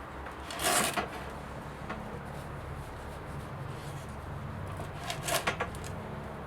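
Ceramic fibre insulation wool being handled and rubbed as it is fitted into a furnace shell: two short rasping scrapes, about half a second in and again about five seconds in, over a steady low hum.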